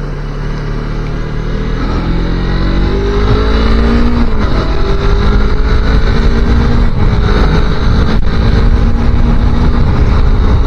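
A 250 cc motorcycle engine accelerating: its pitch rises, drops at a gear change about four seconds in, then climbs again and levels off. Wind buffets the microphone throughout.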